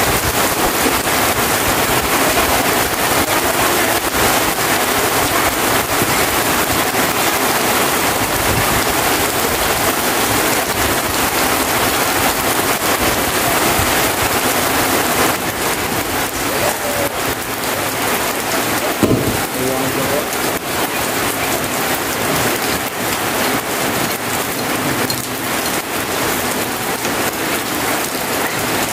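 Heavy rain pouring down steadily, easing a little about halfway through, with a single knock about two-thirds of the way in.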